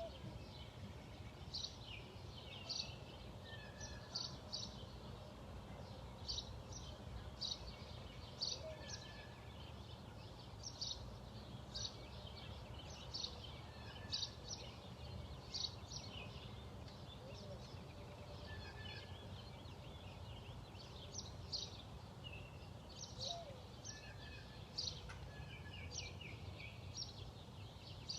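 Songbirds chirping: many quick, high chirps throughout, with a lower repeated note every few seconds, over a steady low outdoor rumble.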